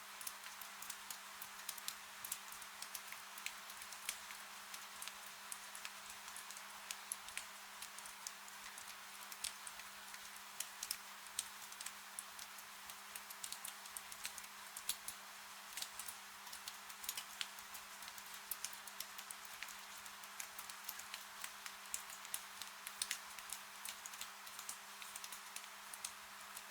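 Wood fire crackling in a fireplace: a faint steady hiss with many small, sharp pops scattered irregularly throughout. A faint, steady low hum runs underneath.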